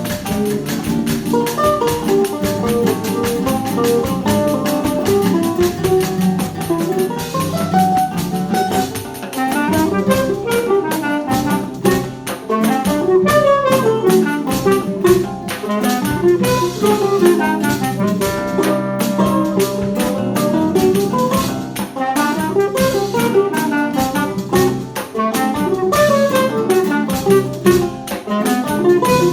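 Choro ensemble playing an instrumental choro: a melody runs in quick notes over plucked-string accompaniment and light percussion.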